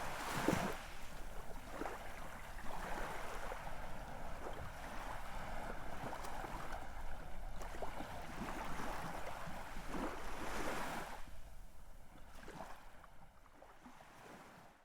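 Ocean waves breaking and washing on the shore, swelling about half a second in and again around ten seconds, then fading out near the end.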